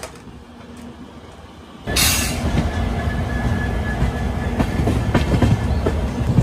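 A passenger train's coaches running along the track, heard close up from an open coach doorway: a steady rumble of wheels on rails with scattered clicks. It is quieter at first and becomes loud suddenly about two seconds in.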